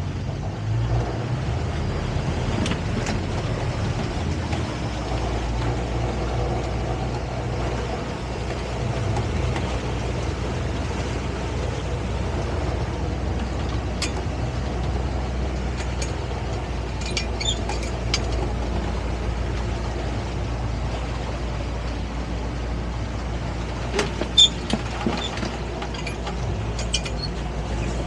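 Boat engine running steadily at low speed, a constant low drone. A few short sharp clicks and knocks break in, the loudest about 24 seconds in.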